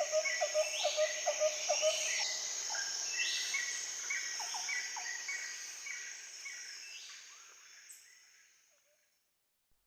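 Rainforest ambience: birds repeating short calls, about three a second, over a steady high buzz of insects, fading out to silence about eight seconds in.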